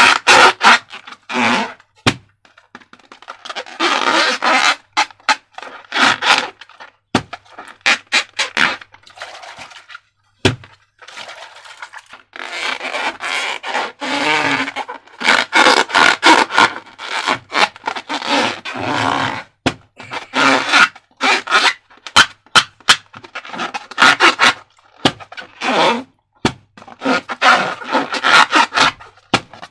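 Balloons and slime being handled by hand: irregular bursts of scraping, rubbing and crackling, each lasting about a second, with many sharp clicks in between.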